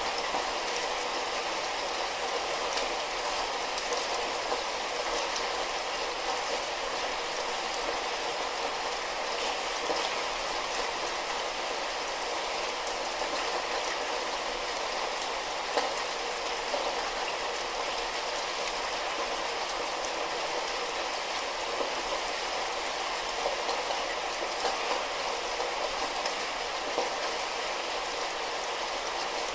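Light rain falling steadily, a constant hiss with scattered drops ticking and pattering on a surface.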